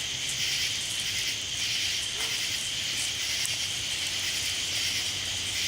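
Steady, high-pitched chirring of night insects, with a low steady hum underneath.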